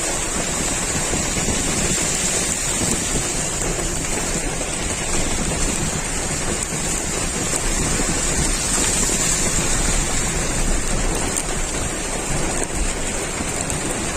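Heavy rain pouring steadily, a dense, even hiss of downpour hitting the ground and surfaces.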